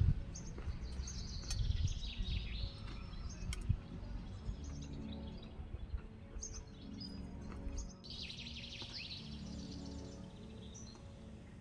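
Birds chirping in a couple of short bursts over soft background music and a low rumble of ambient noise.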